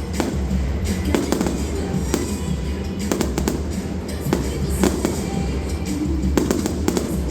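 Fireworks going off in quick succession, with many sharp bangs and crackles, thickest about three seconds in and near the end, over music played along with the show.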